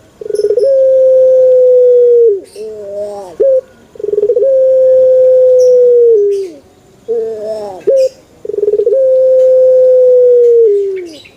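Male puter (Barbary dove) cooing, three times, about every four seconds. Each call is a short rough stutter, then a long drawn-out coo that slides down at the end, then a few short wavering notes.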